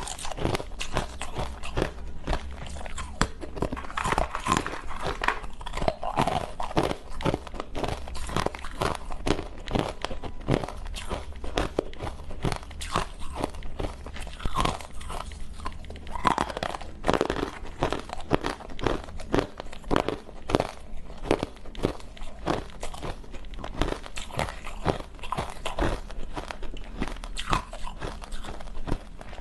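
Ice cubes being bitten and chewed close to the microphone: dense, irregular crunching, several crunches a second throughout.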